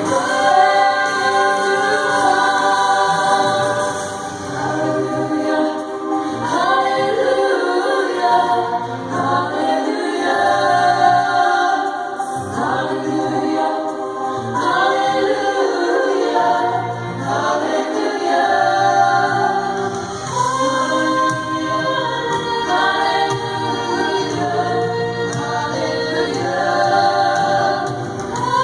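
A choir singing a religious song in harmony, several voices together throughout.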